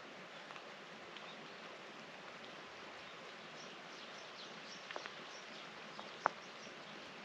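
Steady, faint hiss of rain falling, with short high chirps scattered through the second half and two sharp clicks, one about five seconds in and a louder one about a second later.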